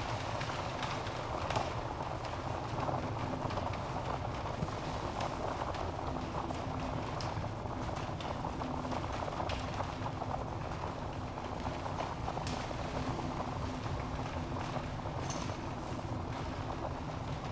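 Wood fire burning in a fireplace: a steady rush of flames with scattered sharp crackles and pops from the logs, one louder pop about a second and a half in.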